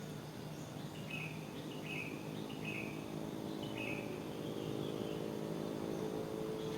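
A songbird repeating short, falling chirps about once a second from about a second in, over a steady wash of wind.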